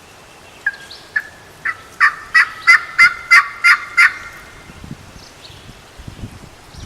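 A series of about nine turkey yelps, evenly spaced at about three a second and growing louder.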